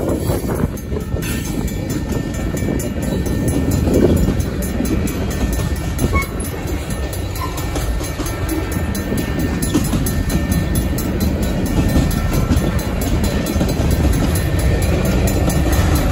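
Freight train cars (covered hoppers and tank cars) rolling past at a grade crossing: a steady, loud rumble and clatter of steel wheels on the rails.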